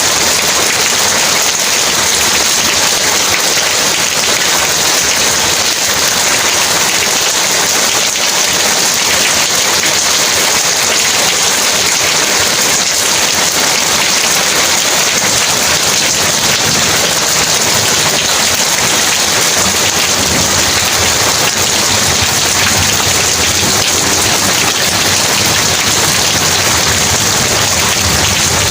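Heavy rain pouring steadily, a dense, even hiss with no let-up. In the second half a low rumble of distant thunder rises beneath it.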